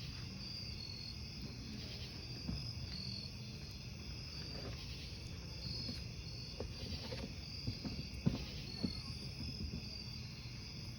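Crickets chirping in steady repeated trills over a crackling wood fire, with a few sharp pops from the burning logs, the loudest about eight seconds in.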